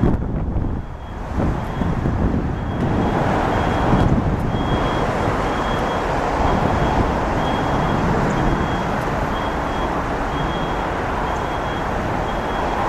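Jet engine roar of a departing Boeing 767-300F freighter climbing away, a steady rumble. A high, evenly repeating beep, about one and a half a second, sounds alongside it, clearest from about four seconds in.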